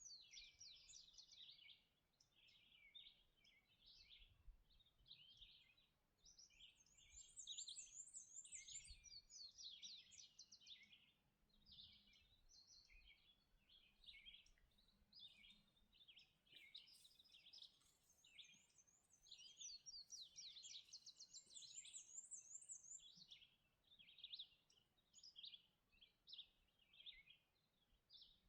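Several songbirds singing at once in a dawn chorus: overlapping high chirps, warbles and rapid trills, faint and steady.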